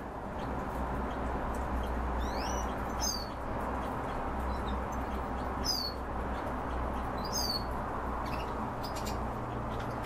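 Caged birds giving about four short, high chirps, each a quick pitch glide, mostly falling, spaced a second or two apart, over steady background noise with a low hum.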